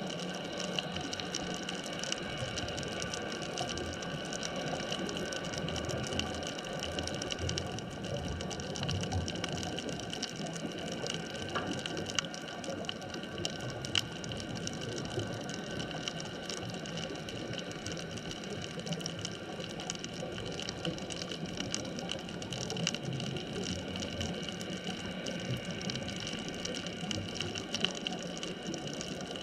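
Steady underwater ambient noise, a constant hiss with a fine crackle of many small clicks running through it.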